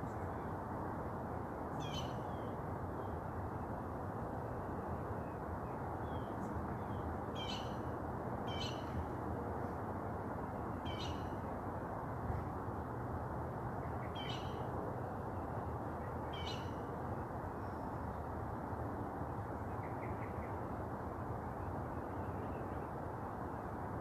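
A bird gives short, falling calls six times, every two to three seconds, over a steady rushing background noise.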